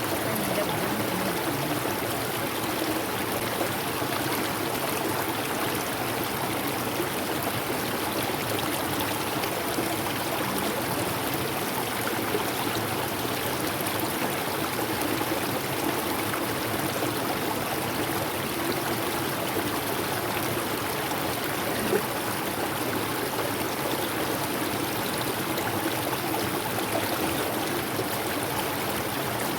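Mountain river rushing steadily, an even wash of flowing water, with one brief knock about two-thirds of the way through.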